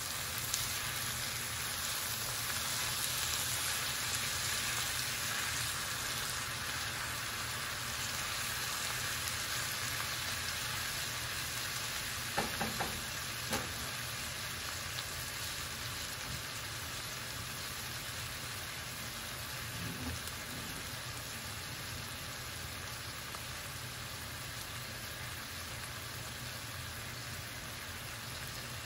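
Sliced cabbage, beets and tomatoes sizzling steadily in oil in an enamelled skillet, stirred with a spatula at first. There are a few light knocks a little before halfway.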